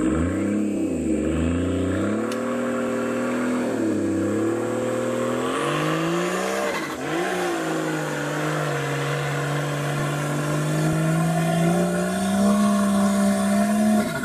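Off-road 4x4's engine revving hard under load as it climbs a steep muddy slope. The revs drop and rise again several times in the first seven seconds, then are held high, creeping up toward the end.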